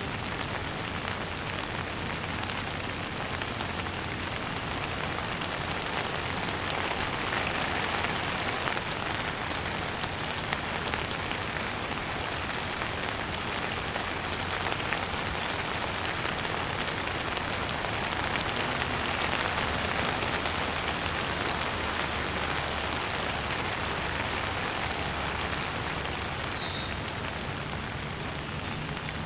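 Steady rain falling, a dense even hiss made up of countless individual drop ticks, swelling slightly and easing off in places.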